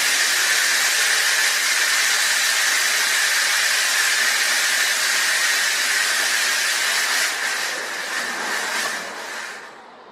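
Ceiling-cassette system air conditioner blowing air: a loud, steady rush of air with a thin whistling tone, dying away near the end.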